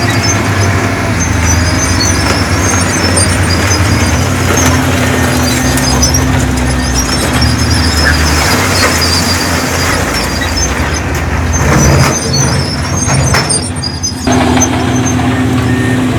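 Heavy earthmoving machinery running: a steady, deep diesel engine note with high, intermittent squeaks over it. The level dips briefly about fourteen seconds in.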